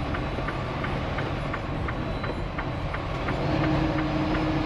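Semi truck's tire chains clacking rhythmically, about four times a second, as the truck rolls very slowly, over a steady diesel engine rumble.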